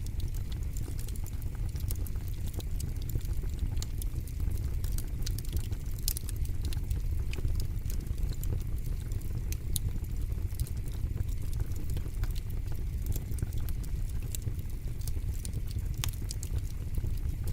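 Fire pit fire crackling, with irregular sharp pops and snaps over a steady low rumble.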